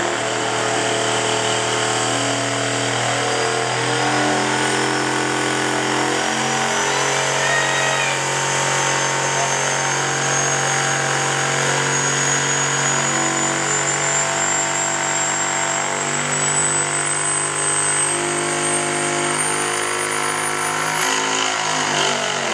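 Diesel pickup truck engine running hard at high revs under load during a truck pull. Its note shifts in steps, with a thin high whistle climbing slowly in pitch throughout.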